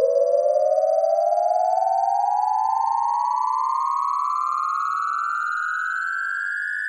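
Sequential Prophet-10 rev 4 analog synthesizer playing a preset with no effects: a single held sound gliding slowly and steadily upward in pitch, two slightly detuned oscillators beating against each other. It gets gradually quieter as it rises.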